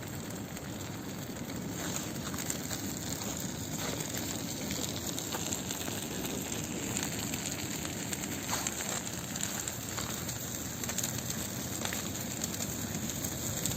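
Large bonfire burning: a steady rushing hiss with scattered crackles and pops throughout.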